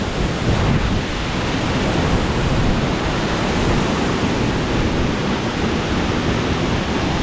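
Mok Fa Waterfall pouring: a steady, unbroken rush of falling water.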